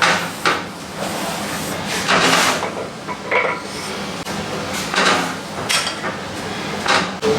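Short metal rasps and knocks, about one a second at irregular spacing, from work on an engine block, over a steady low machine hum.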